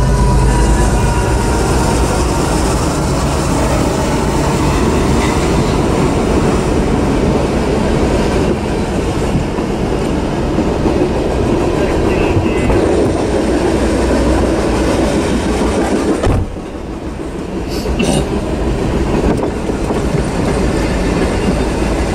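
Norfolk Southern freight train passing close by: the diesel locomotives' engines drone as they go by at the start, then the string of freight cars rolls past with a steady rumble and rattle of wheels on rail. The noise dips briefly about three quarters of the way through.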